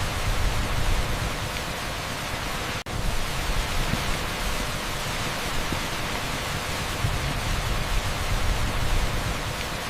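Heavy downpour of rain on an asphalt street: a steady, dense hiss over a low, uneven rumble, broken by a split-second gap nearly three seconds in.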